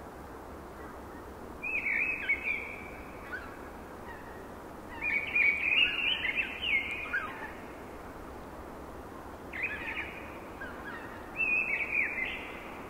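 A songbird singing four short phrases over a steady rush of wind in the forest trees.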